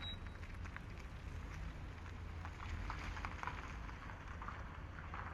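Quiet town street ambience: a steady low rumble with scattered faint ticks and clicks.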